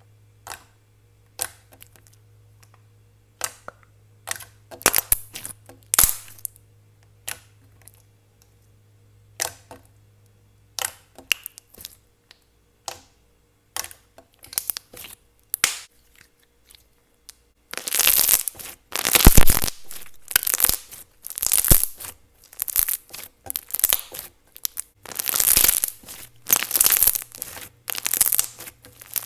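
Thick, glossy slime being poked, squeezed and stretched by hand, making sticky clicks and pops. At first they are sparse single pops; from about two-thirds of the way in they come in dense, louder crackly bursts as the slime is worked harder.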